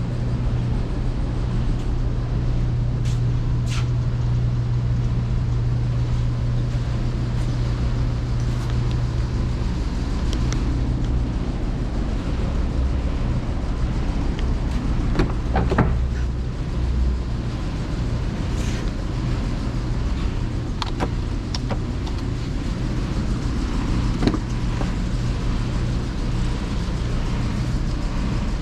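Car engine idling steadily, as of the 2018 Cadillac ATS's 2.0L turbocharged four-cylinder, with a few sharp clicks and knocks over the top.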